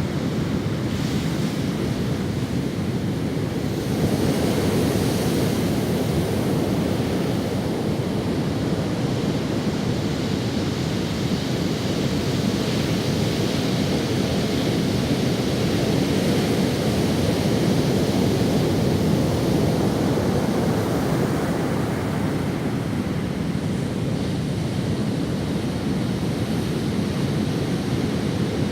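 Ocean waves washing onto a sandy beach, a steady surf wash that swells gently twice. Wind on the microphone adds some rumble.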